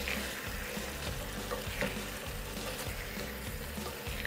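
Curry goat sizzling in a pot on a gas stove while it is stirred with a wooden spoon, with a few light knocks of the spoon against the pot.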